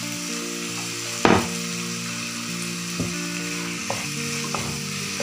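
Onion, tomato and green chilli masala sizzling in hot oil in a pot while being stirred with a wooden spatula. The spatula knocks against the pot about a second in, which is the loudest moment, again around three seconds in, and lightly a couple more times after that.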